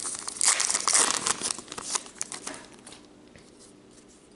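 Trading-card pack wrapper crinkling and tearing as a fresh pack is ripped open, busy for about two seconds and then dying away.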